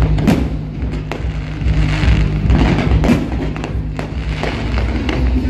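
Aerial fireworks going off in a string of sharp bangs and crackling bursts. Loud music with a heavy, steady bass plays underneath.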